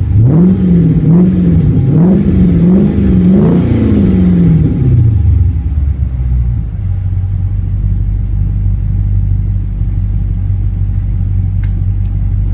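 Dodge Charger SRT8's Hemi V8 through a Magnaflow exhaust, held high with about five quick throttle blips, then dropping back to a steady low idle about five seconds in.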